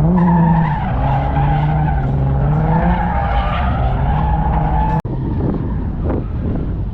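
Car engine held at high revs, its pitch wavering up and down over tyre noise, as in a drift run. The sound breaks off abruptly about five seconds in and resumes as lower, rougher engine and vehicle noise.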